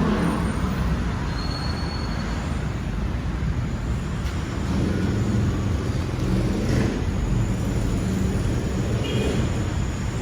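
2020 BMW S1000R's inline-four engine idling through its stock exhaust, a steady low rumble.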